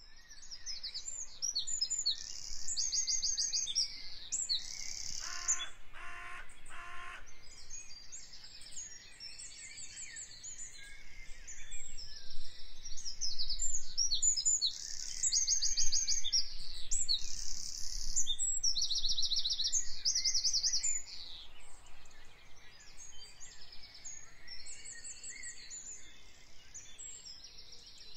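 Several small birds chirping and trilling, with fast high trills overlapping one another. About five seconds in, three short lower calls sound one after another.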